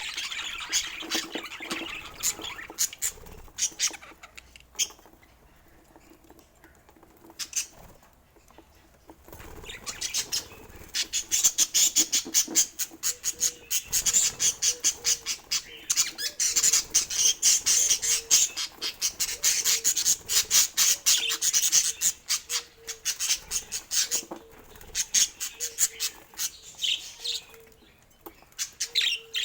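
Budgies chirping and chattering in a rapid stream of high-pitched notes and clicks, quieter for a few seconds about five seconds in, then busy continuous chatter from about ten seconds in, thinning out near the end.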